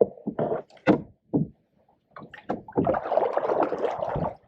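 A canoe being paddled and pushed through a tight turn in shallow water. A few sharp knocks of the paddle against the hull come first, then, about two and a half seconds in, a longer stretch of scraping and splashing.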